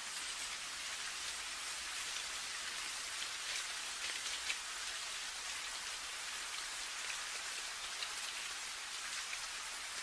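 Steady rain with a hiss, mostly high in pitch, and many separate drops ticking on a hard surface.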